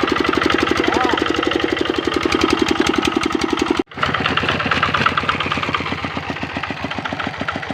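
Kubota RD65 single-cylinder diesel engine on a hand tractor, running steadily with an even, rapid firing beat. The sound cuts out for an instant just before four seconds in, then carries on.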